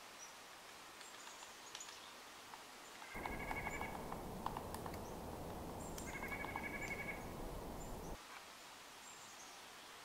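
Wild birds calling outdoors: two short, rapid rattling calls, one about three seconds in and one about six seconds in, with thin high chirps scattered throughout. The steady background noise steps up abruptly at about three seconds and drops back at about eight, as the sound switches from one recorder's microphone to another's.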